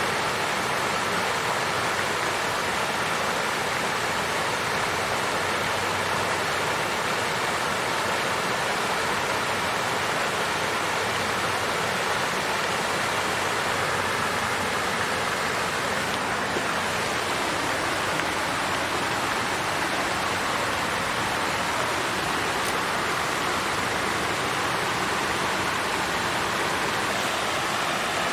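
Water fountain's water flowing and splashing in a steady, even rush.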